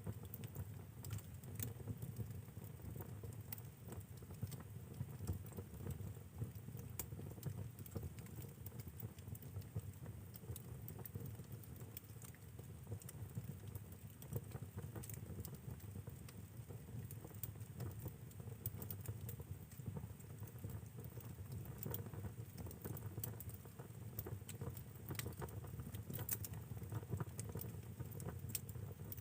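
Wood fire burning in a fireplace: irregular crackles and small pops throughout, over a low steady rumble.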